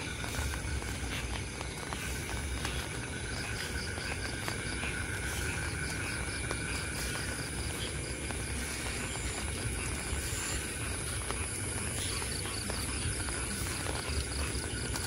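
Light rain falling, with scattered drip ticks, under a steady chorus of crickets and other night insects holding several high tones, one of them pulsing.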